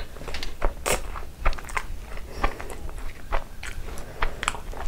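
Close-miked chewing of a soft, cream-topped Indian milk sweet, with many irregular sharp clicks and smacks of the mouth.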